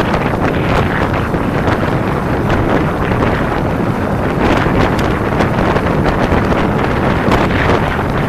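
Heavy wind noise buffeting the microphone at riding speed on a Kawasaki Ninja 250 motorcycle, a steady roar with small crackles, with the bike's running underneath.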